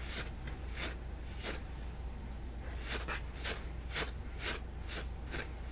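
Small wire-toothed cat brush drawn in short strokes across a stuffed bear's pilled plush fabric to lift out the pills and fuzz, about two strokes a second with a pause near the middle. A low steady hum runs underneath.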